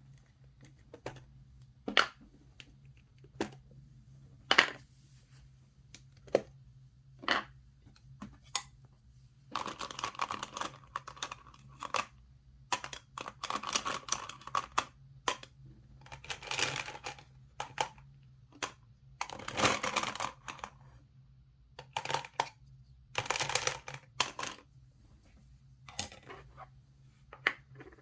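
Gumball machine being worked: sharp single clicks about once a second at first, then, from about ten seconds in, rattling spells a second or two long as gumballs tumble and roll, with single clicks again near the end.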